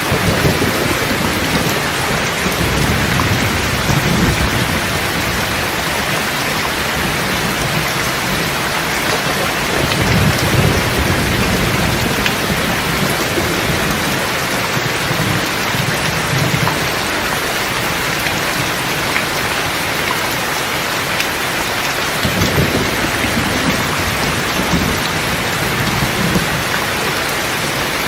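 Steady heavy rain pattering, with low rolling thunder rumbling underneath that swells a few times, most strongly about ten seconds in and again a little after twenty seconds.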